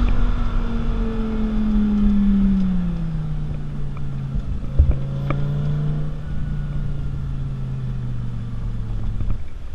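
Lamborghini supercar engine coming off the throttle: its note falls over the first few seconds, then runs steadily at lower revs and fades near the end. A few short knocks come about five seconds in.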